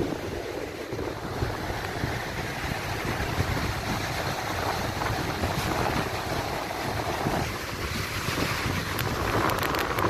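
Wind rushing over the microphone, with the wash of sea surf underneath. A few faint clicks come near the end.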